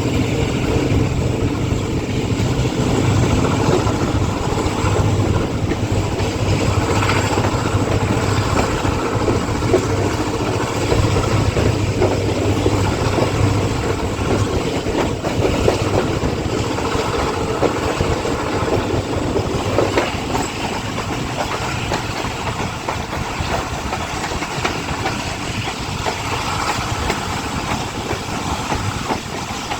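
Passenger train running along the track: steady rumble of the coaches with wheels clacking over the rails and a low drone that eases off about two-thirds of the way through.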